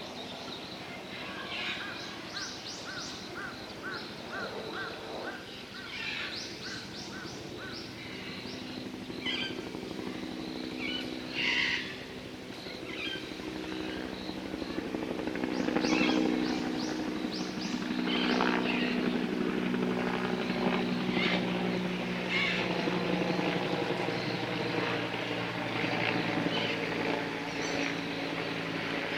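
Birds chirping and trilling over the steady drone of an aircraft engine passing overhead, which grows louder about halfway through.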